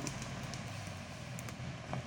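Engine of an old army 4x4 truck running at a steady idle, with a few faint clicks near the end.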